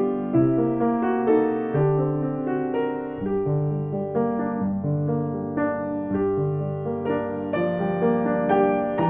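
Piano playing a gentle piece: a flowing line of notes over changing bass notes.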